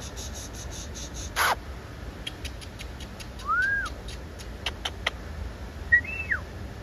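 A bird calling in the trees: scattered short sharp chips, then one rising-and-falling whistled note about halfway through, and a quick note followed by a falling whistle near the end.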